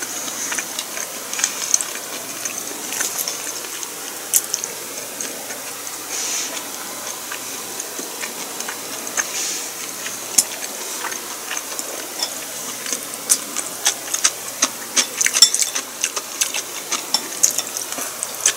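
Close-up eating sounds: chewing and wet mouth clicks over a steady hiss, with the sharp clicks coming more often near the end.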